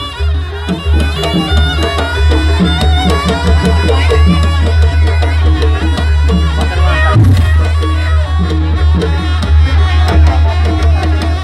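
Jaranan buto ensemble music: loud, busy drumming under a wavering melodic line.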